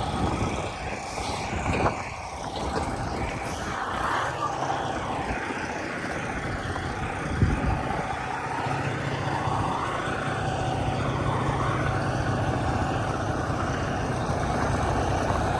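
Semi truck's diesel engine running steadily during a slow backing manoeuvre, with one short thump about seven and a half seconds in.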